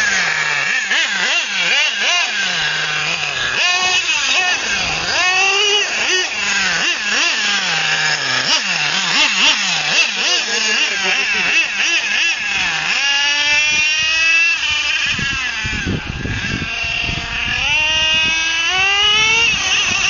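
Nitro engine of an XRAY XT8 1/8-scale RC buggy revving up and down repeatedly as the car is driven. Two longer climbs in pitch come in the second half.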